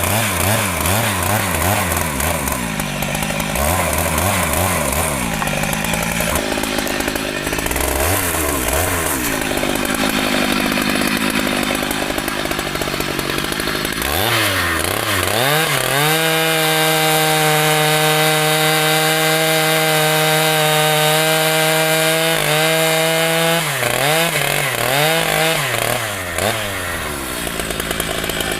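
Two-stroke chainsaw working in mahogany, its engine revving up and dropping back again and again. About sixteen seconds in it is held at high revs, steady, for roughly seven seconds, then drops and revs up and down once more.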